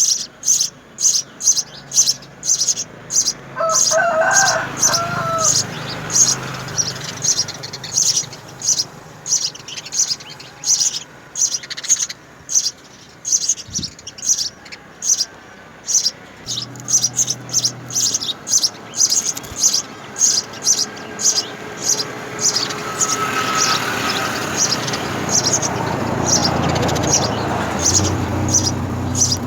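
House sparrows chirping in a long run of short, high chirps, about two to three a second, with a lower wavering call about four seconds in. A low rumble builds in the last several seconds.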